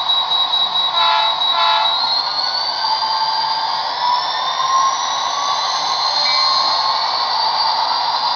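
Model diesel locomotive's DCC sound decoder playing engine sound through its small speaker, with two short horn toots about a second in and a tone that rises over the next few seconds as the engine revs.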